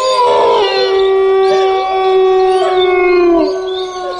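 Wolves howling: several long, held howls overlap at different pitches, the lowest one sliding down shortly before it ends.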